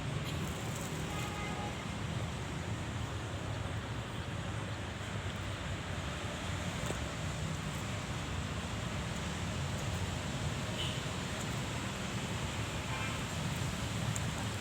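Steady outdoor background noise: a continuous low rumble with a hiss over it and a few faint ticks.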